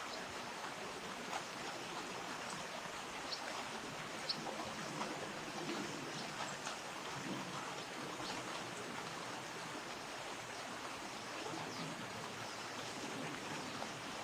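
Steady rush of flowing river water, with a few brief faint ticks.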